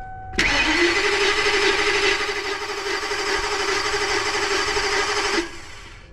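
The 2000 Ford E350's V10 Triton engine being cranked by its starter for about five seconds without catching; then the cranking stops. It is a no-start that persists even with a new camshaft position sensor fitted.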